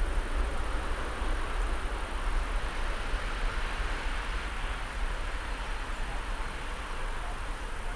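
Steady rushing rumble of jet aircraft engines, swelling slightly midway, with a low buffeting rumble underneath.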